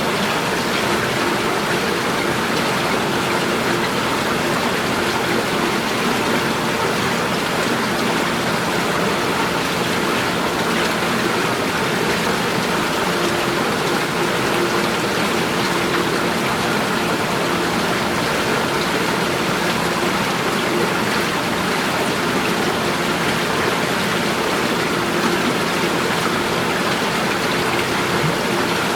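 Running water flowing and splashing in a steady, unbroken rush, with a faint steady tone underneath.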